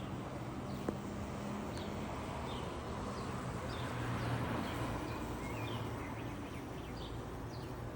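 Small birds chirping outdoors, short high chirps that slide downward, repeated every half second or so, over a steady low hum. A single sharp click about a second in.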